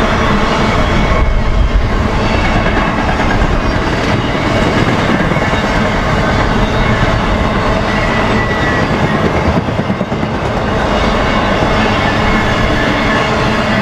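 Loud, steady rumble of a BNSF intermodal freight train's cars, trailers on flatcars, rolling past on steel rails.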